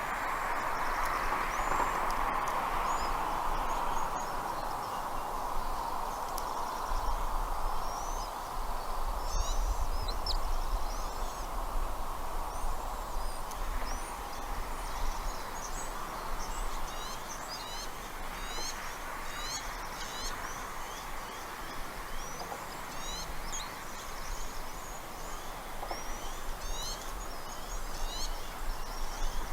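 Birds chirping: short, high calls that come in quick runs from about a third of the way in, over a steady rushing background noise.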